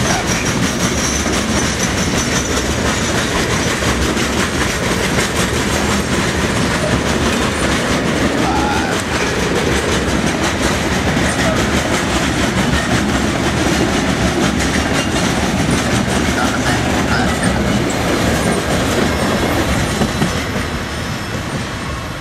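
Freight train of steel open-top cars rolling past close by: a steady rumble with the wheels clacking rapidly over the rail joints, easing slightly near the end.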